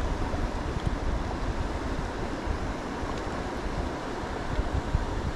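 Steady rushing of river water running over riffles and boulders, an even noise with a restless low rumble beneath it.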